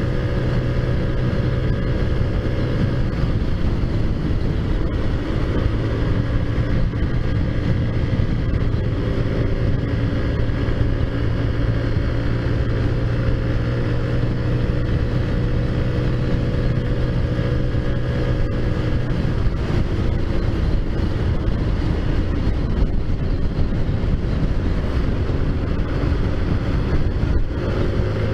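Taotao Zummer 50cc four-stroke scooter engine, fitted with a big bore kit and aftermarket exhaust, running steadily while riding. Its pitch eases and picks back up a couple of times.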